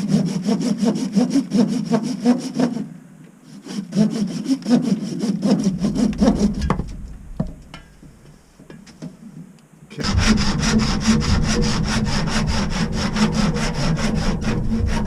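A saw cutting through a plastic ABS drain pipe in quick, even back-and-forth strokes. It stops briefly about three seconds in, goes quiet and sparse for a few seconds past the middle, then picks up again louder and steadier.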